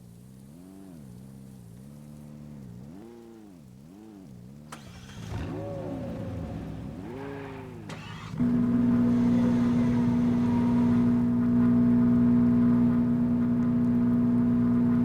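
A car engine being revved up and down again and again, about once a second. About eight seconds in it jumps to a loud, steady high-rev run that holds.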